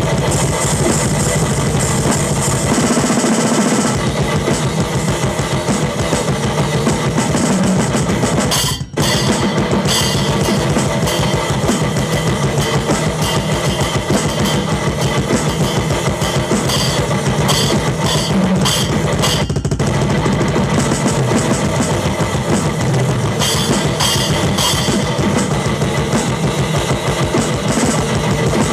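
A drum kit played in a loud, dense rock jam, with bass drum and cymbals, breaking off for a moment about nine seconds in before carrying on.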